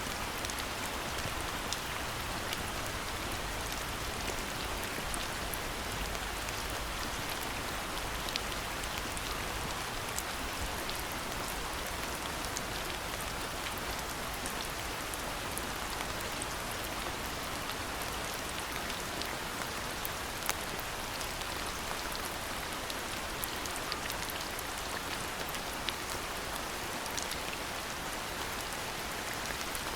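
Steady rainfall, an even hiss of rain with many scattered sharp drop ticks on top; one tick stands out a little louder about two-thirds of the way through.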